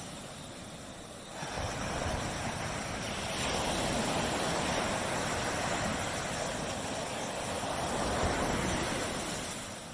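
Small tropical waves washing onto a beach: one surge of surf comes in about a second and a half in, holds as a wash, then draws back near the end.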